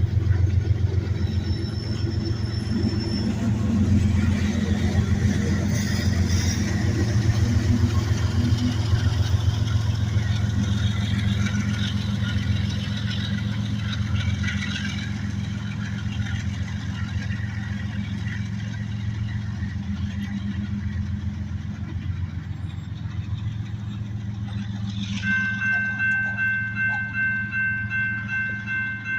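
Diesel locomotive engine running with a steady low rumble. Near the end the locomotive bell starts ringing in regular strokes, about two a second.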